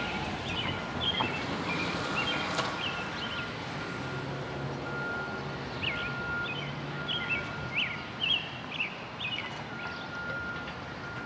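Small birds chirping in two runs of quick, repeated short notes, one at the start and another about halfway through, over steady outdoor background noise.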